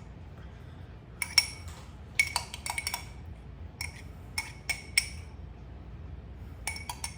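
A fork clinking against a bowl in several short runs of quick strikes, each with a brief ring, as it mixes graham cracker crumbs with brown sugar, cinnamon and butter for a cheesecake crust.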